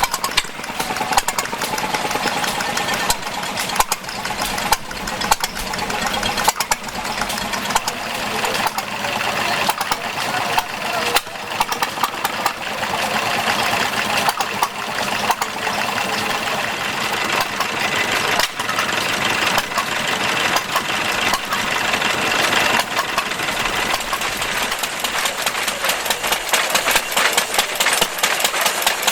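Vintage stationary engines running, with a steady run of sharp firing knocks.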